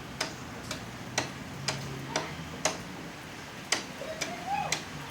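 Sharp chopping strikes of a blade into a tree trunk, about two a second with a brief pause in the middle.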